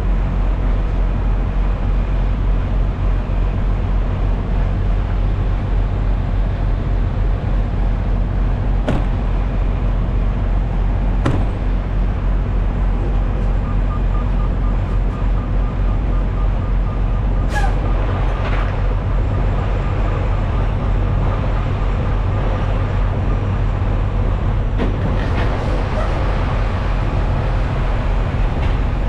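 Freightliner semi truck's diesel engine running steadily, with a few brief, sharp sounds several seconds apart.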